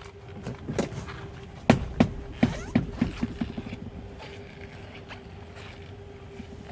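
A quick run of sharp knocks and clatters, the loudest about two seconds in and then several weaker ones over the next two seconds, over a steady low hum.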